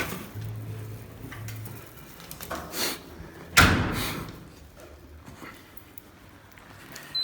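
A loud thump about halfway through that dies away over about a second, with a lighter knock just before it.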